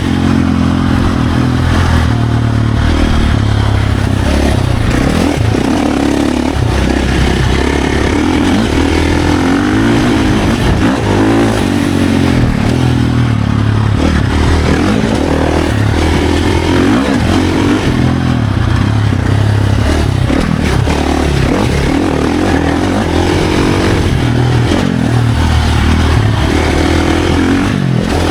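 Dirt bike engine running hard on a trail ride, its pitch rising and falling again and again as the throttle opens and closes, with a dense rushing noise throughout.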